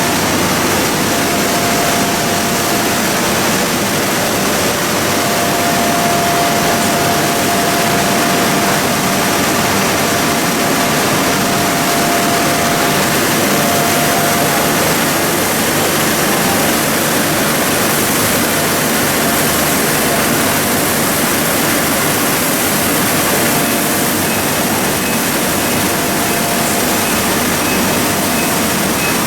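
PE and calcium carbonate pelletizing line running steadily: a loud, even mechanical noise with a faint whine that comes and goes.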